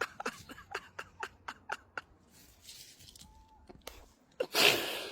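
A man laughing quietly in a run of short chuckles, then a loud breathy exhale near the end.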